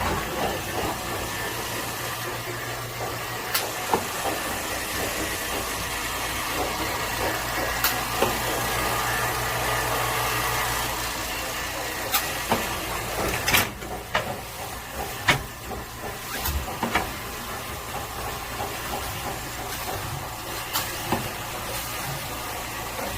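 A steady mechanical hum with hiss, broken by scattered sharp clicks and knocks that come thickest about halfway through.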